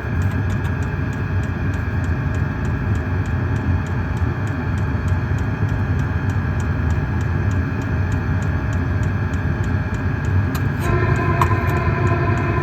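2 kW Chinese diesel heater running: a steady low exhaust rumble with its fuel dosing pump ticking evenly, about three to four times a second. About 11 seconds in, a steady higher whine joins the rumble.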